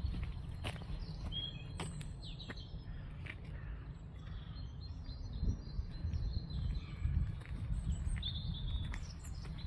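Small birds chirping in short, scattered calls, clustered about a second in and again near the end, over a steady low rumble, with a few light clicks.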